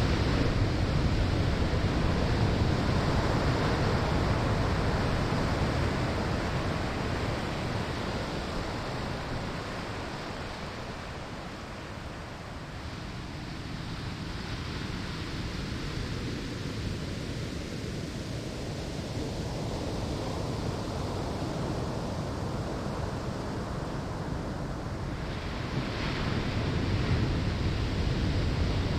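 Ocean surf breaking on a sandy shore: a steady rush of water that is loud at first, eases off for several seconds in the middle, then swells again as the next wave comes in near the end.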